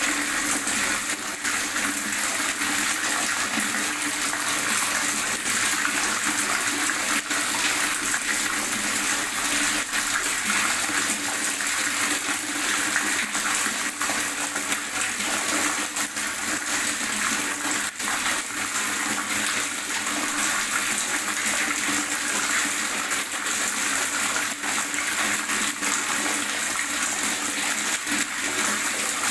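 Water gurgling and running steadily, a constant bright splashing hiss with little low rumble.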